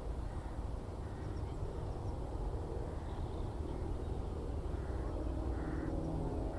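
Open-country field ambience: a steady low rumble with faint, scattered high bird chirps, and a faint hum coming in near the end.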